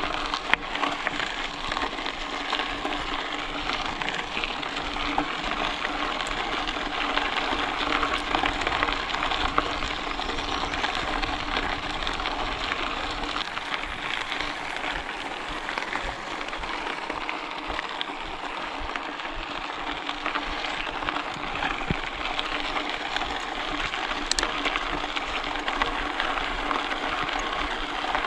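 Bicycle in motion on a trail: a steady hiss and fine crackle of the tyres rolling along the trail surface, with a few small ticks scattered through it.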